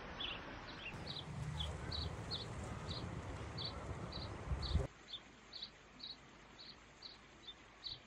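A small bird chirping over and over, short high notes about twice a second, over a low wind rumble that cuts off abruptly about five seconds in.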